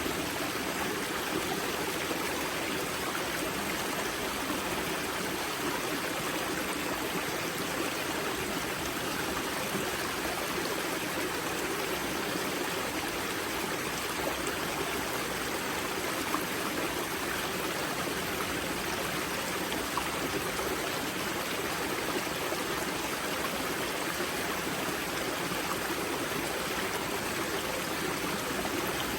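Spring-fed mountain stream at the river's source, its water rushing and splashing in a steady, unbroken flow.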